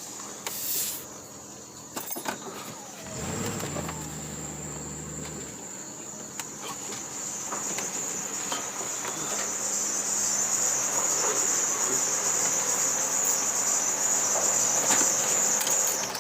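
Crickets chirping in a steady high trill, growing louder in the second half. A low engine hum is heard briefly a few seconds in.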